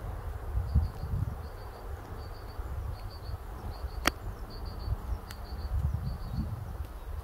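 A small songbird repeating a short, high three-note phrase about every two-thirds of a second, over an unsteady low rumble of wind on the microphone, with a single sharp click about four seconds in.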